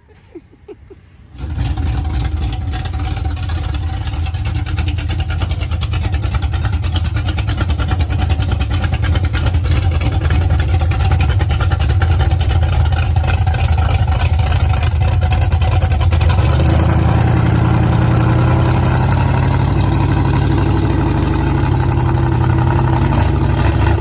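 Big-block V8 mud-truck engine starting up about a second and a half in, then running loud and steady with a fast crackling exhaust; its low note shifts about two-thirds of the way through.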